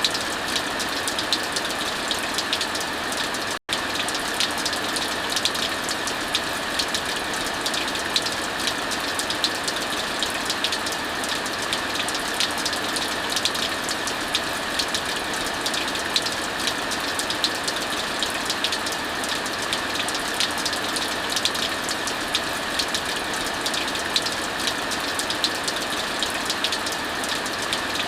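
Steady heavy rain hissing, mixed with a fireplace crackling: many small sharp pops and snaps over the even rush of the rain. The sound cuts out for an instant about three and a half seconds in.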